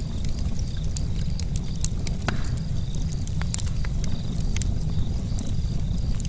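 Charcoal campfire crackling: sharp, irregular pops and ticks over a steady low rumble.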